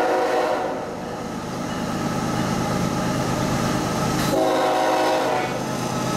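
Freight train of CSX GE diesel locomotives passing close by: an air-horn chord ends about half a second in, then the engines and wheels on the rail rumble steadily. A second, short horn blast sounds about four seconds in and lasts about a second.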